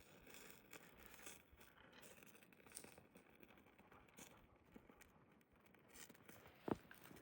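Near silence: faint rustling and small handling sounds, with one sharp click about six and a half seconds in.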